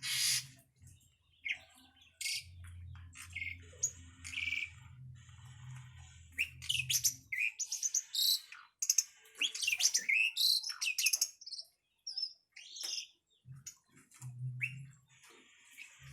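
Birds chirping and calling in quick, overlapping chirps and whistles, busiest in the middle. A low hum comes and goes beneath them.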